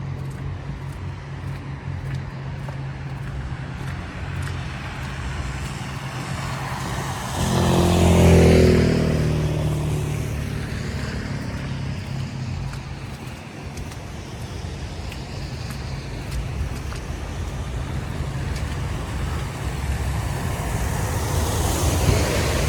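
City street traffic: motor vehicles running with a steady low hum, one passing close about eight seconds in, louder and dropping in pitch as it goes by. The traffic swells again near the end.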